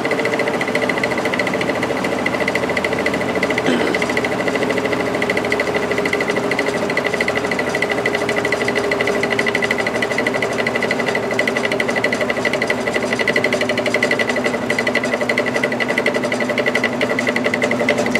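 Electric window fan motor running with a loud, rapidly pulsing cyclic hum and rattle, called a racket. The owner puts it down to an imperfect, out-of-round rotor, not to worn bearings or felt washers.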